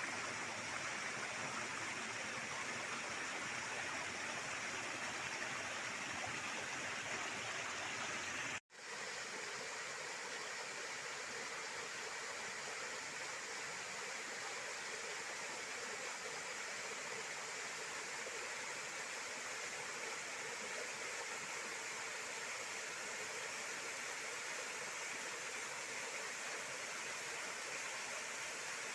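Waterfall's water falling and splashing in a steady rush. It drops out for a split second about nine seconds in, where the recording cuts, and then resumes slightly thinner in the low end.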